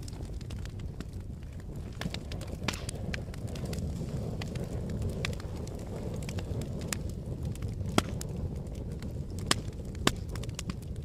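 Fire burning with a steady low rush and irregular sharp crackles and pops; the loudest pop comes about 8 seconds in, with two more near the end.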